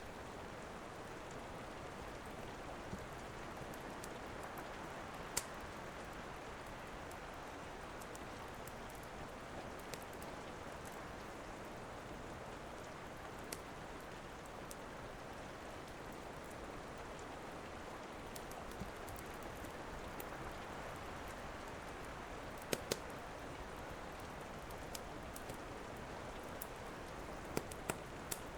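Steady rain hiss with sharp crackles and pops from a wood fire now and then. The loudest is a close pair of pops about three-quarters of the way through.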